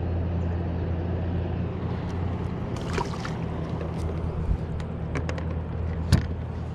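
A steady low mechanical hum like a distant motor, with scattered light clicks and a sharper knock about six seconds in.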